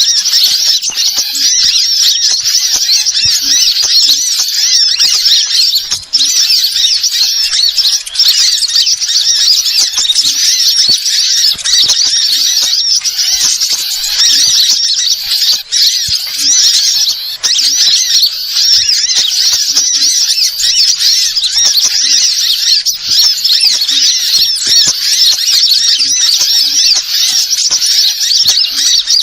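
Continuous rapid high-pitched bird chirping and twittering, many notes packed together without a break: a bird-lure call recording played to attract wild birds.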